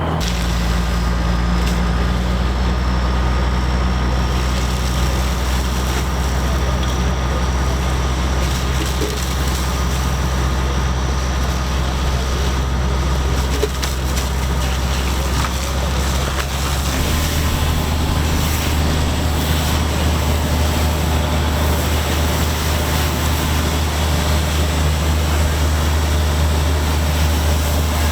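Fire truck engine running steadily with a low drone, stepping up to a higher engine speed a little past halfway through.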